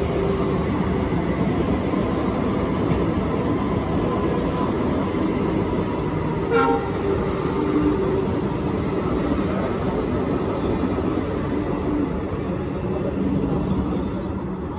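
Vande Bharat Express electric trainset arriving and rolling past along the platform: a steady rumble of wheels on rails with a low hum. A brief horn toot sounds about six and a half seconds in.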